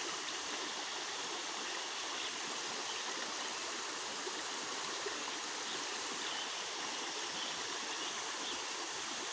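Spring-fed mountain stream flowing: a steady, even rush of running water.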